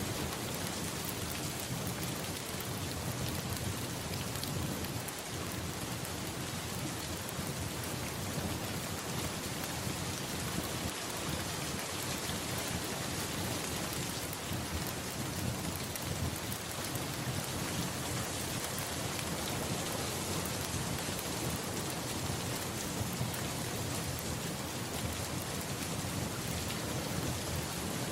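Steady heavy rain hissing, with low thunder rumbling and swelling at times underneath.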